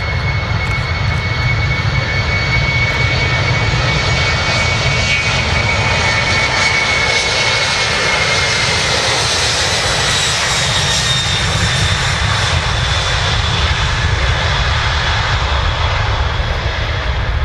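Boeing 747's jet engines at takeoff power: a steady, loud roar with high whining tones over it as the jumbo departs.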